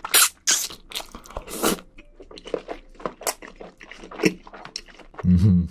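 Close-miked chewing of spicy seafood and wide glass noodles: wet clicks, smacks and crunches in quick, uneven succession. Near the end comes a short, low voiced hum.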